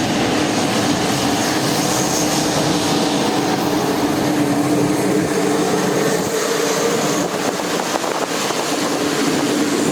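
A Piper Malibu's engine and propeller running steadily close by as the plane moves past, with a thin high whine above the engine note.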